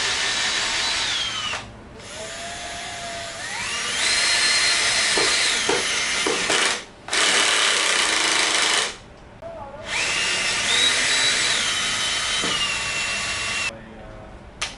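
Makita DF333D 12V cordless drill motor run in about four bursts with short stops between. Its whine climbs from a slow speed to full speed and drops again as the variable-speed trigger is squeezed and eased.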